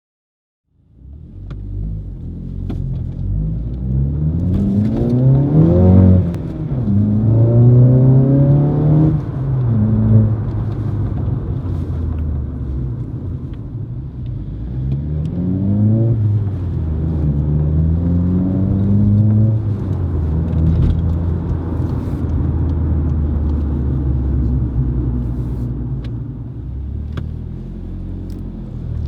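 VW Polo GTI's 1.8 TSI turbo four-cylinder engine and stainless Cobra Sport turbo-back exhaust with sports cat, heard from inside the cabin. It accelerates in several pulls, the note rising and then dropping at each upshift, and settles into a steady cruising drone for the second half.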